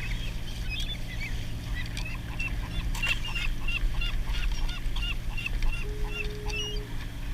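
A flock of waterbirds calling, a chorus of many short, repeated calls several times a second, over a steady low rumble of wind and water.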